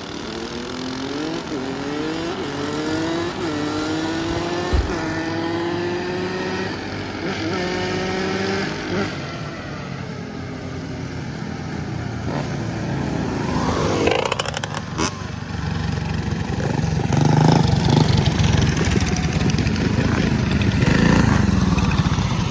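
A motorcycle engine accelerating hard, its pitch climbing and dropping several times as it shifts up through the gears and fades. Then a vehicle passes close by about two thirds of the way in, and an engine runs loudly near the end.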